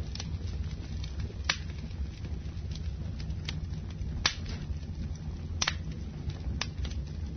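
Wood fire burning in a fireplace: a steady low rumble of flames with scattered crackles and a few sharp pops, the loudest about a second and a half in and about four seconds in.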